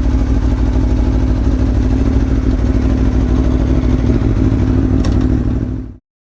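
Aprilia Tuono V4 1100 Factory's V4 engine running steadily at low revs. The sound cuts off abruptly about six seconds in.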